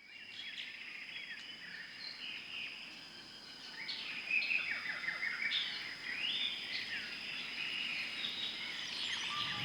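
Many birds chirping and calling in quick, overlapping short notes over a steady high insect hum, a forest-like bird chorus.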